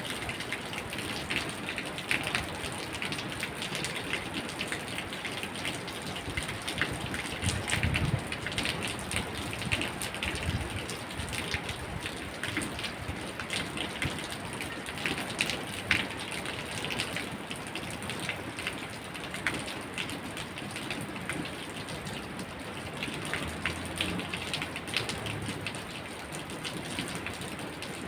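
Steady rain falling, a continuous hiss dotted with many sharp drop impacts.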